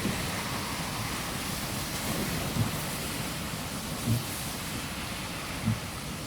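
Car driving in the rain: a steady hiss of tyres on the wet street and rain, with three short low thumps.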